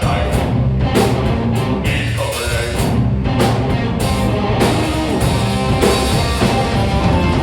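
Three-piece rock band playing live: electric guitar, bass guitar and drum kit together, with drum and cymbal hits running through a steady, loud groove.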